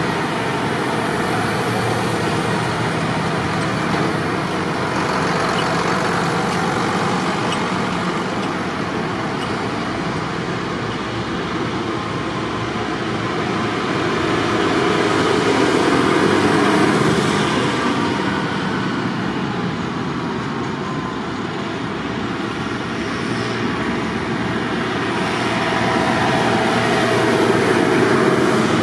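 Tractor engines running steadily, swelling louder twice, about halfway through and again near the end, as tractors pass.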